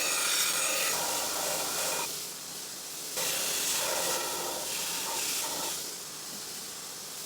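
80CrV2 steel blade being ground against an abrasive, a steady rasping hiss in long passes of a few seconds each, dropping off between passes.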